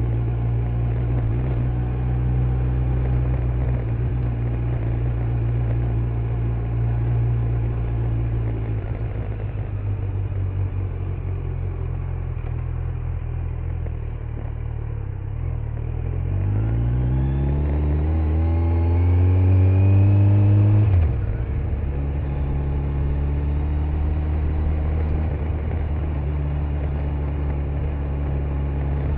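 Kawasaki Z900's inline-four engine under way: running steadily, easing off for several seconds, then accelerating with a rising pitch that cuts off sharply at a gear change about two-thirds through, before settling into a steady cruise and starting to rise again near the end.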